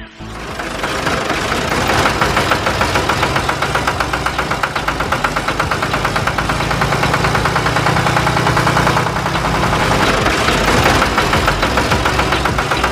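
Small motor of a homemade mini tractor running steadily with a fast, even rattling chatter, building up over the first couple of seconds.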